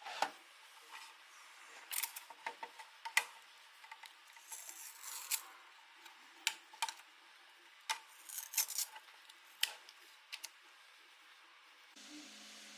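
Small hard plastic parts being handled: a dozen or so sharp, irregular clicks and snaps, with a short scraping rub about four and a half seconds in.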